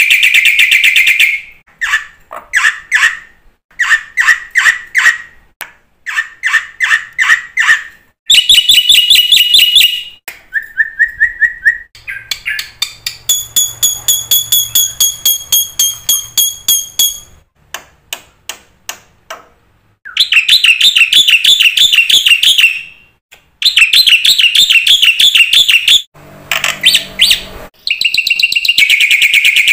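Black-winged starling (jalak putih) singing a long, varied song full of fill phrases: loud buzzy rapid trills, short bursts of fast repeated notes, a long steady whistle near the middle, and harsh rattling stretches, with brief pauses between phrases.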